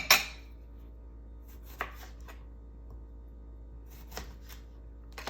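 A knife cutting limes on a cutting board: two sharp knocks right at the start, then a few lighter, scattered taps.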